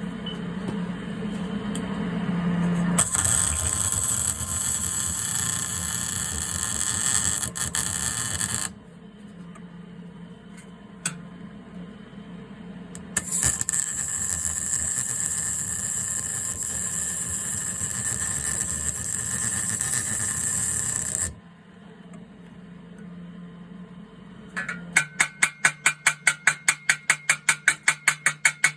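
Two stretches of steady, harsh metalworking noise, each several seconds long, then near the end a fast run of hammer blows on the steel exhaust downpipe, about four or five a second.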